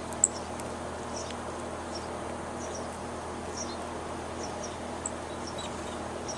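Small birds giving short, high chirps at irregular intervals over a steady low background hum, with a sharp click shortly after the start.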